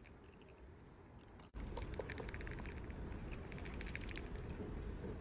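Parrots' beaks nibbling and chewing food: quick irregular clicks and ticks over a low hum. A brief dropout about a second and a half in is followed by louder clicking.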